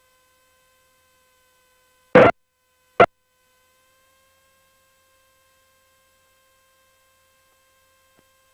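Faint steady electrical hum in the aircraft's intercom and radio audio, broken by two short, loud bursts of noise about two and three seconds in.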